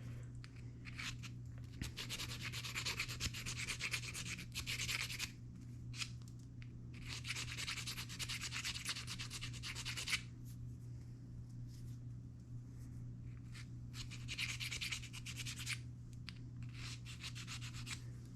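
Bead file rasping inside the bore of a glow-in-the-dark acrylic bead, smoothing the hole so it won't fray the cord. There are three longer spells of filing, about two, seven and fourteen seconds in, with short scratchy strokes between them.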